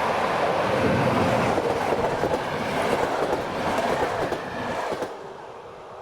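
A train rolling past on the track, a loud steady rumble of wheels on rails that drops away suddenly about five seconds in.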